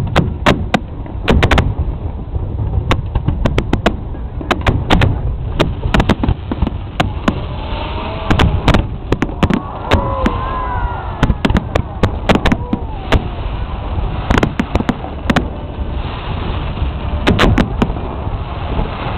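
Aerial fireworks going off in a continuous barrage: many sharp bangs in quick, irregular succession over a constant low rumble. Crowd voices rise briefly in the middle.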